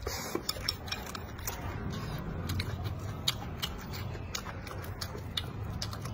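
Close-up chewing of small whole stir-fried shrimp, shells and heads on, with sharp, irregular crunches and clicks.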